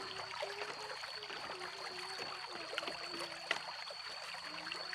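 A woman softly humming a tune, one wavering voice line moving in small steps, over a dense crackling, rustling background and a thin steady high-pitched whine.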